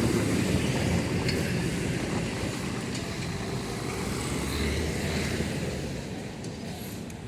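Road traffic: vehicle engines running with a steady low rumble, growing a little quieter near the end.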